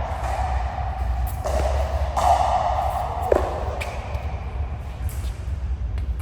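A few sharp knocks of a pickleball struck by paddles, the clearest about halfway through with a short ringing tail. Under them runs a steady hum and the murmur of a large indoor hall.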